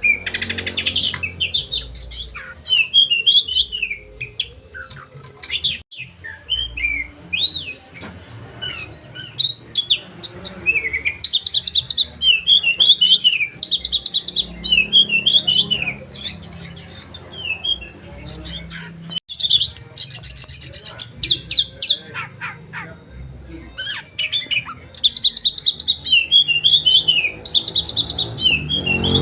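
Oriental magpie-robin (kacer) singing a loud, varied song of quick chirps and whistled slurs. Its phrases are broken by fast rattling trills, the 'tembakan' rolls prized by songbird keepers.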